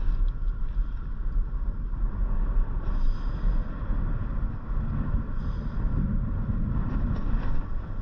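Steady road and engine noise of a moving car, a low rumble with a hiss over it.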